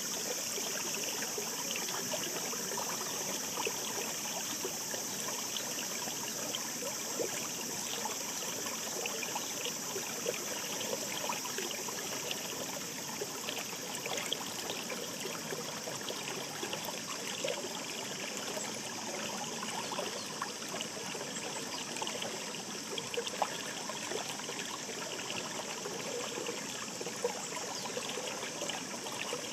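Shallow mountain stream babbling over stones: a steady rush of water full of small trickling splashes.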